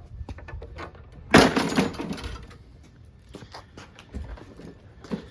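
Walk-behind lawn mower being handled and set back down on its wheels: a loud clatter about a second in that trails off over about a second, with small knocks and scrapes around it.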